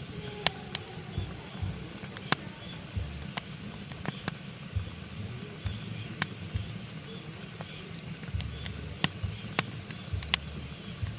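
Pine wood burning in a fireplace, crackling with irregular sharp pops over a steady low rumble and hiss of the flames.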